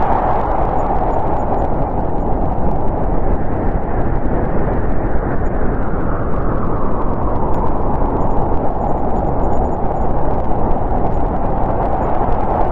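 Strong snowstorm wind blowing steadily as a dense rushing noise. It eases a little in the middle and builds again near the end.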